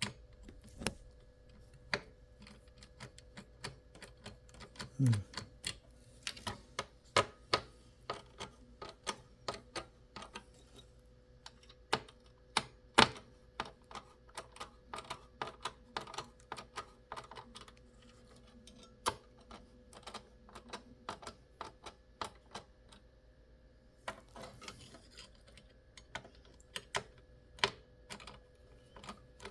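Irregular light clicks and taps of small hard plastic and metal pieces knocking together, a few at a time with short gaps, one louder knock about 13 seconds in. A short falling squeak about 5 seconds in, and a faint steady hum underneath.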